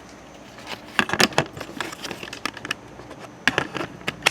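A series of irregular sharp clicks and taps, about a dozen, bunched around a second in and again past the three-second mark.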